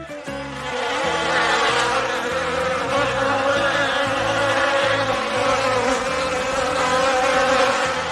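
A swarm of insects buzzing steadily and densely, swelling up over the first second. A low stepping pattern of tones runs underneath.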